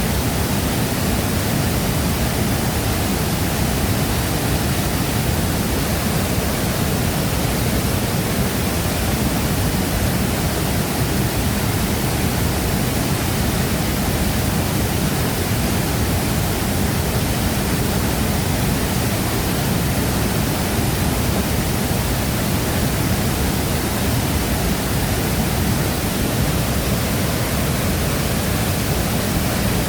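Shifen Waterfall pouring steadily: a dense, even rush of falling water with a deep low rumble, unchanging throughout.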